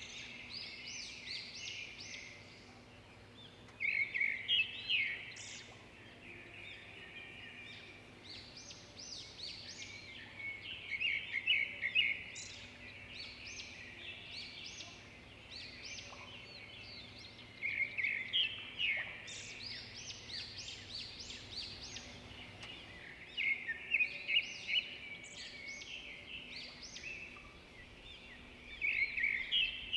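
Birds chirping: bursts of quick, high chirps and trills every five or six seconds, with quieter chirping between them. A faint steady hum runs underneath.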